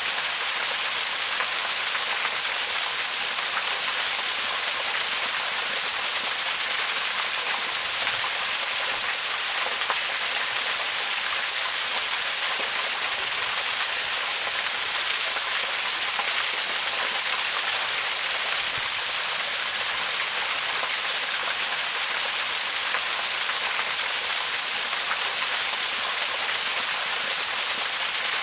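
Waterfall: a steady, even rush of falling water, strongest in the high hiss, with no breaks.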